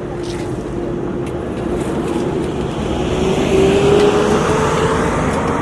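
A motor vehicle engine running, with a hum that rises slightly in pitch as it grows louder about three to four seconds in.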